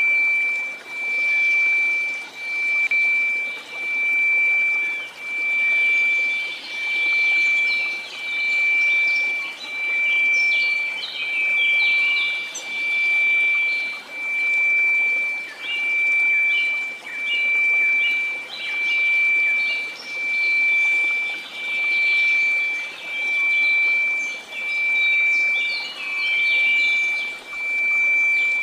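A steady 2334 Hz sine tone over white noise, swelling and fading in slow pulses about every second and a half. Short high chirps come and go above it.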